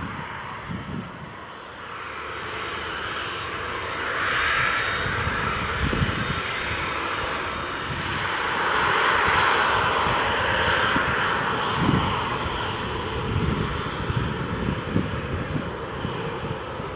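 Aircraft engines running, swelling about four seconds in and again more strongly around eight to eleven seconds, then easing off.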